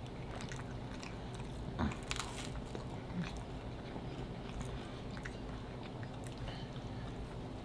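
Close-miked mouth sounds of people biting and chewing slices of pulled pork and bacon pizza, small wet clicks and crunches, with a louder crisp bite about two seconds in.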